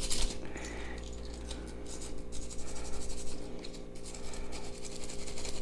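Brass wire brush scrubbing the bare die-cast metal body of a toy car in irregular scratching strokes, taking off leftover stripping residue and keying the metal for paint adhesion.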